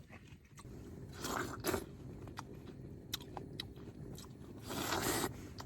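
A person biting into and chewing juicy watermelon, with two louder crunching bites about a second and a half in and near the end, and small wet clicks between them. A steady low hum runs underneath.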